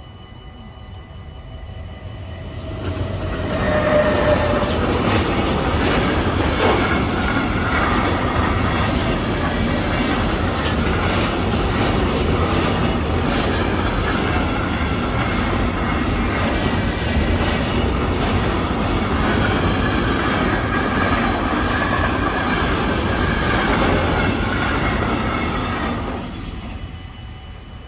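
Freight train passing over a level crossing: the rumble and clatter of its wheels on the rails builds up over the first few seconds, runs steadily loud, and falls away quickly near the end.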